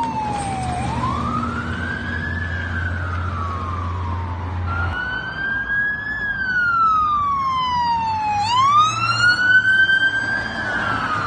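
Emergency vehicle siren in wail mode, sweeping slowly up and down in pitch, with a sudden jump in pitch about halfway through and a quick rise near the end. A low vehicle engine hum runs under it until about halfway through.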